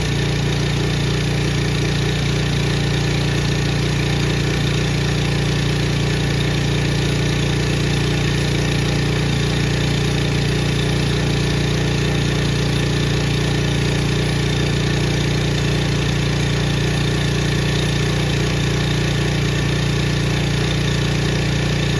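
Powermate 208cc single-cylinder overhead-valve snowblower engine running steadily and evenly, with no spitting or sputtering, its carburetor freshly cleaned.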